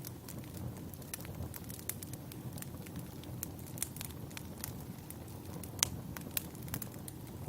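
Wood fire burning with a low steady rumble and irregular sharp crackles and pops of burning logs, one louder pop near the end.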